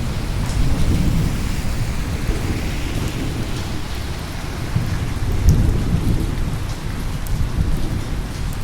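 Steady rain falling with thunder rumbling continuously beneath it, swelling about a second in and again around the middle.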